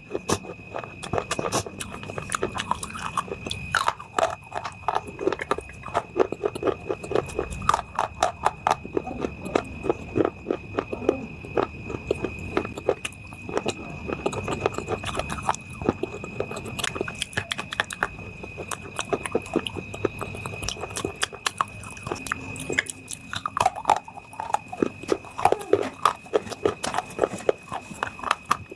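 Dry baked clay being bitten and chewed close to the microphone: a dense, irregular run of sharp crunches and crackles as the pieces break and crumble.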